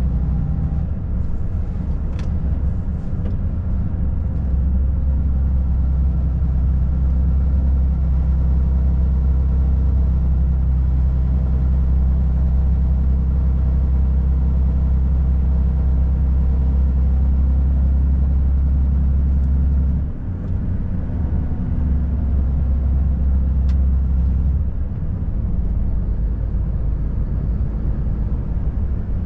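Volvo FH540 truck's 13-litre six-cylinder diesel running under way, a steady low drone. The drone briefly dips about twenty seconds in and shifts again a few seconds later.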